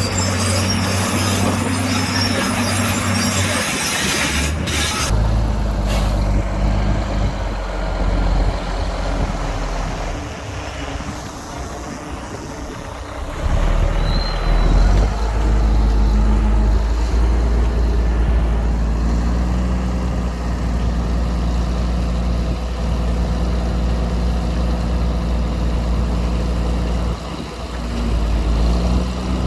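Heavy diesel engines of earth-moving machinery, a bulldozer and dump trucks, running under load, the engine note shifting as the machines work. A loud rushing hiss sits over the engines for the first few seconds.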